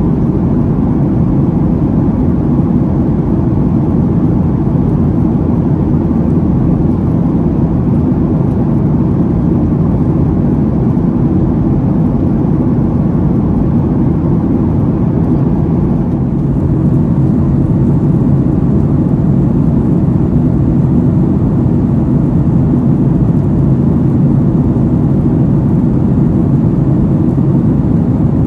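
Steady cabin noise of a Boeing 737-800 in cruise: its CFM56-7B turbofan engines and the airflow over the fuselage make a constant deep rumble, with a slight dip in level a little past halfway.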